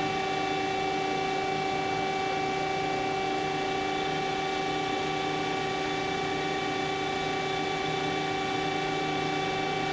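DoAll TF-2021NC CNC vertical angle-cutting band saw running at the start of its first automatic cut, giving a steady hum and whine of several fixed tones with no change in level.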